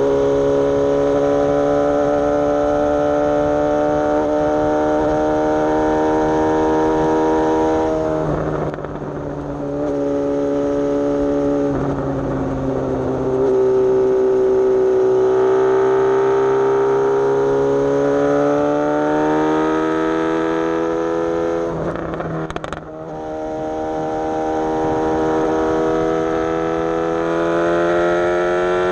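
Suzuki GSX-S750's inline-four through a Coffman's aftermarket exhaust, running under load while being ridden. The engine note holds steady, dips briefly about a third of the way in and again about three quarters through, and climbs in pitch between and after the dips.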